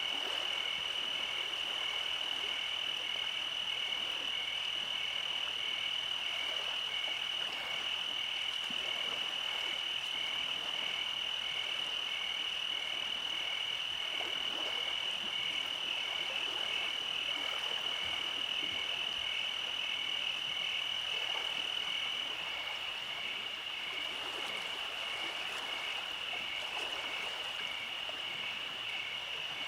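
Night chorus of frogs and insects: a steady high trill with a rapidly pulsing call under it. A thinner, higher steady whine drops out about three quarters of the way through.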